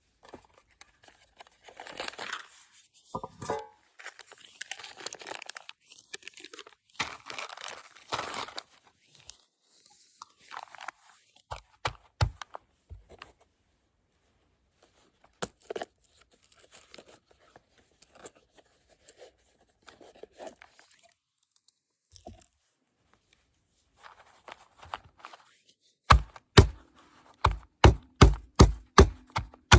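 Rustling and crinkling like a bag or wrapping being handled, with scattered clicks. Near the end comes a steady run of sharp knocks, about three a second.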